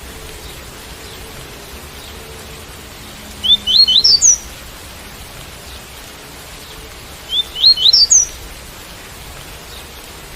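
Coleiro tui-tui (double-collared seedeater) singing two short phrases about four seconds apart, each a quick run of notes climbing in pitch, over a steady hiss of rain.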